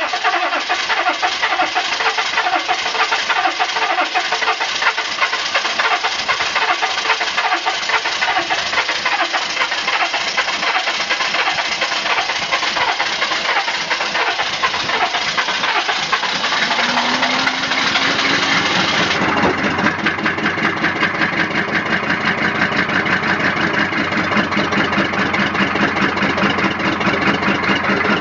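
1994 GMC 1500's naturally aspirated 6.5 L V8 diesel cold-starting and running with a loud, rhythmic diesel clatter, at about −15 °C with no block heater after sitting six months. About two-thirds of the way in, the highest hiss drops out and the engine settles into a lower, steadier beat.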